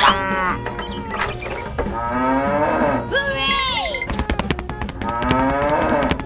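Cattle mooing, about three drawn-out calls with bending pitch, over background music with a clicking beat; a higher, falling call comes about three seconds in.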